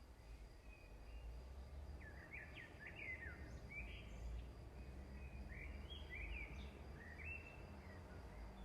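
A small bird singing faintly: a string of short chirps and quick falling whistles for a few seconds, over a low steady hum.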